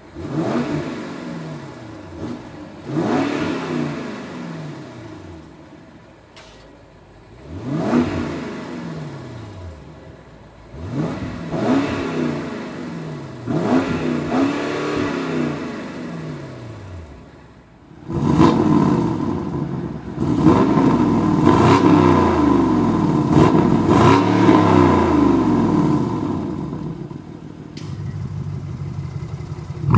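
BMW X7 M50i's twin-turbo V8 through an Armytrix cat-back exhaust, revved in about six short blips, each falling back toward idle. From about 18 s the engine is held at higher revs for several seconds, rising and falling repeatedly.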